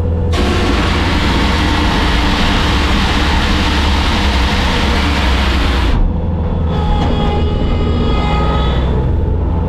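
Bobcat skid steer's diesel engine running steadily. A loud hiss starts just after the beginning and cuts off suddenly about six seconds in, and a few high whining tones follow near the end.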